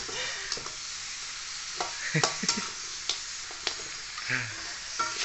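Salted river fish frying in hot oil with basil roots: a steady sizzle, with a spatula clicking and scraping against the pan several times.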